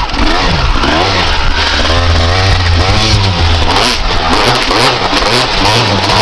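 1995 Honda CR250R's two-stroke single-cylinder engine being ridden hard, its pitch rising and falling again and again as the throttle is opened and shut.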